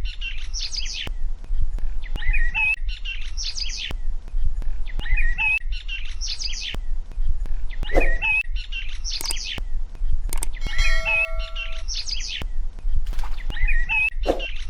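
Birds chirping, the same cluster of chirps repeating about every three seconds over a steady low hum, with a brief steady tone about eleven seconds in.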